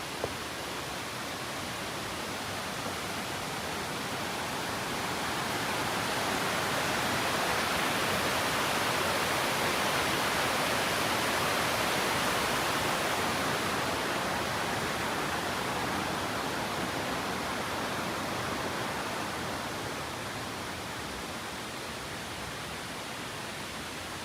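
Waterfall rushing: a steady hiss of falling water that grows louder about five seconds in, peaks around the middle, and eases off again near the end.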